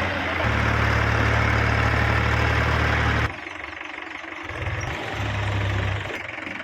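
Heavy diesel vehicle engine revving hard under load for about three seconds, then dropping off suddenly, and revving again briefly near the end. The vehicle has sunk into the ground and is being driven to get out.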